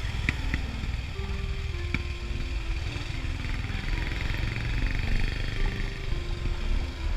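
Honda Click 125i scooter's single-cylinder engine running while riding, under heavy wind rumble on a helmet-mounted camera mic. Music with a stepping melody plays over it, and a few small clicks come near the start and about two seconds in.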